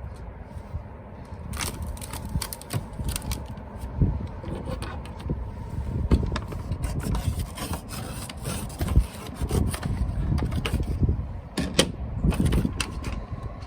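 Irregular crinkling and scraping of a vinyl decal's backing paper as it is peeled away and handled against the boat hull, over a steady low rumble.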